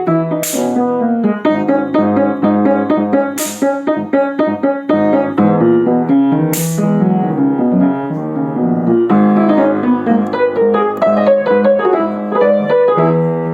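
Piano music playing a busy keyboard melody, with a short bright hiss about every three seconds in the first half.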